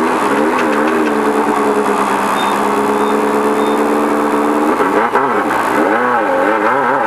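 Off-road race car's engine heard from inside the car, running at a steady pitch, then, after about five seconds, revving up and down again and again.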